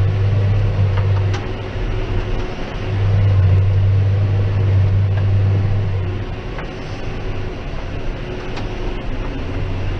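John Deere 6190R tractor engine running with a steady low droning hum that swells and eases, dropping somewhat about six seconds in. The tractor is regenerating its diesel particulate filter, which gives the engine a strange sort of noise.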